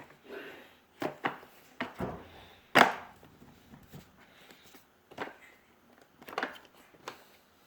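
Irregular hard knocks and clatters, about eight of them, the loudest nearly three seconds in, with no vacuum motor running.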